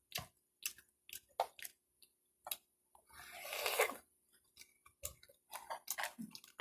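Close-up mouth sounds of eating: wet chewing and lip smacks, heard as a scatter of short clicks, with one longer breathy hiss about three seconds in.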